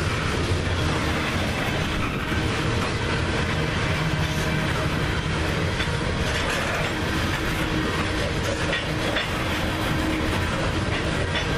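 Coal hopper cars of a freight train rolling past: a steady rumble of steel wheels on the rails with scattered clicks.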